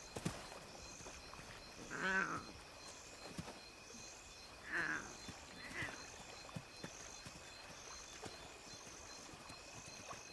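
Night bush ambience: insects chirping in an evenly repeating pattern over a constant high insect drone. Several short, falling animal calls stand out, about two, five and six seconds in.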